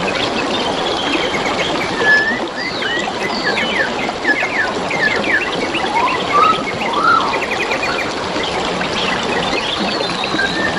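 Several wild birds chirping and whistling, with many short notes and a quick trill around the middle, over the steady trickle of flowing stream water.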